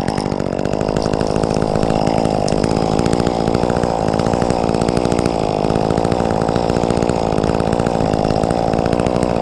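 Two-stroke chainsaw revved up and held at full throttle, running steadily at high speed, then let off just at the end.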